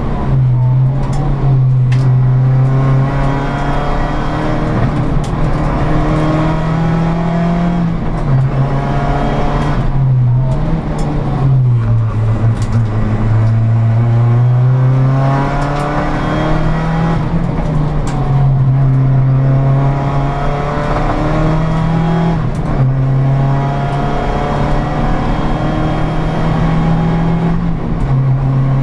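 Seat Ibiza 1.8T's turbocharged four-cylinder engine driven hard at race pace, heard from inside the cabin. The note climbs again and again and drops back at each gear change. About halfway through it sinks low for a few seconds before climbing once more.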